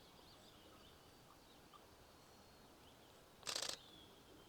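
Faint bird calls, then about three and a half seconds in a short burst of rapid camera shutter clicks from a Fujifilm X-T4 shooting in continuous mode.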